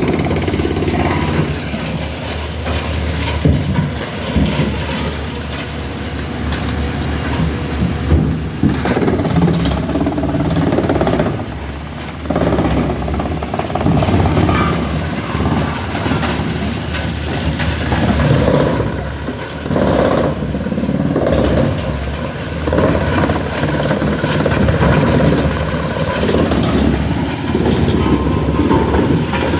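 A large engine running with an uneven load, its level rising and falling irregularly, with a few brief louder knocks.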